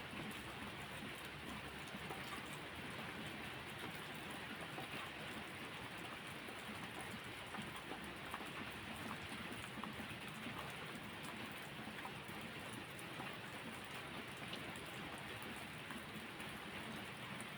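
Steady rain falling: an even hiss with many faint scattered ticks of drops.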